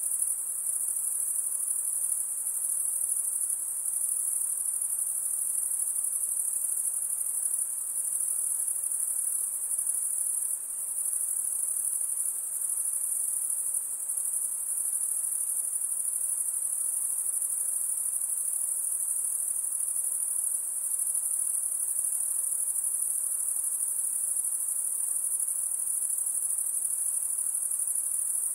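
Insects trilling in a continuous, high-pitched chorus that holds steady throughout.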